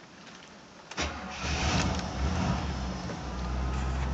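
1973 Pontiac Catalina's V8 starting cold. About a second in it cranks and catches, runs unevenly for a moment, then settles into a steady low idle about three seconds in.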